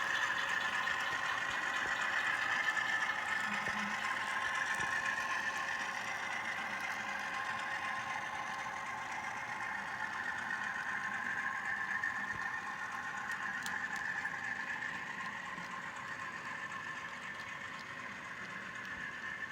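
Simulated diesel engine sound from ESU LokSound decoders in HO scale model locomotives, a steady drone played through their small onboard speakers as the locomotives pull under load, slowly fading.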